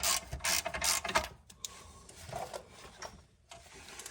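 Hand ratchet wrench clicking through several quick strokes in the first second or so, then quieter tool handling.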